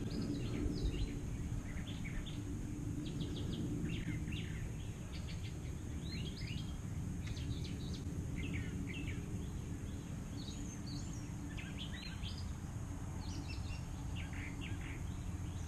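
Birds chirping and singing in short repeated calls over a steady low background rumble.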